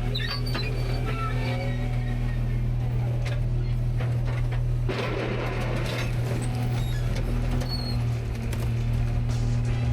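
Rear-load garbage truck running with a steady low drone, with faint metallic squeaks and a short burst of rustling noise about five seconds in.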